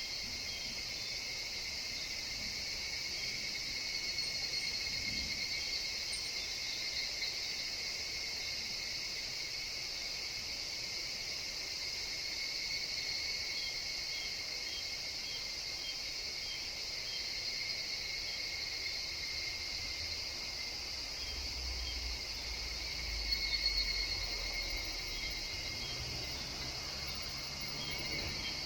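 Evening cicadas (higurashi) and other insects calling in a steady, unbroken chorus. A brief low rumble comes about three-quarters of the way through.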